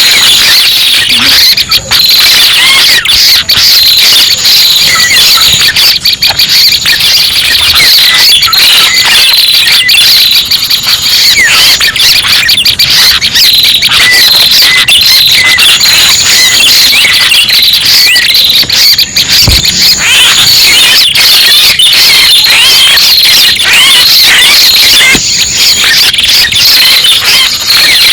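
Bird-luring (pikat) call recording of the prenjak pala merah: loud, dense, continuous shrill chirping and trilling, the calls crowded around one high pitch, with a fainter, higher whistle coming and going every few seconds.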